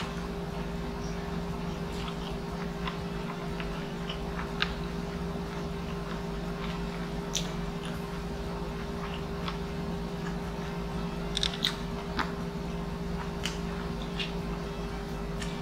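Close-miked eating: a person chewing with soft mouth clicks and wet smacks scattered throughout, over a steady low hum.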